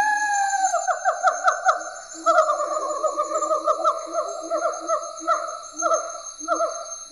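Siamang calling: a long run of quick hooting notes, several a second, the first notes sliding down in pitch, with a steady high-pitched hum behind them.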